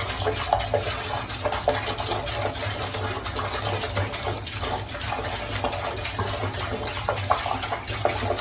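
Water running steadily, like a tap filling a bathtub, with small scattered splashes and knocks.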